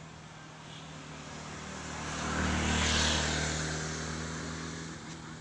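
A motor vehicle passing by: a low engine hum and a rushing noise grow louder to a peak about three seconds in, then fade away.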